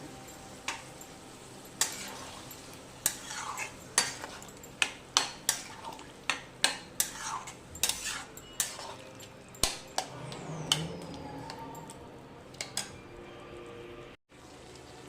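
Metal spoon clinking and scraping against a cooking pot while stirring vegetables. There are many sharp, irregular clinks over a steady low background of cooking noise.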